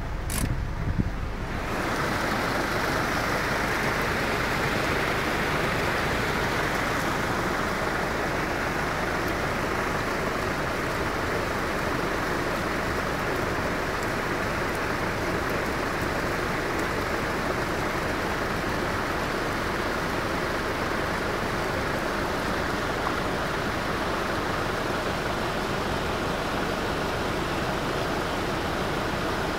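Steady rush of floodwater over a low rumble, setting in about a second and a half in after a brief click.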